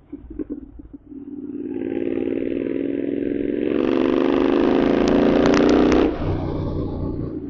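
Royal Enfield Continental GT 650's 648 cc parallel-twin with a Code 6 tune. It crackles briefly, then revs up steadily for about four seconds, with several sharp pops near the top. The note drops suddenly about six seconds in to a lower steady run as the throttle closes.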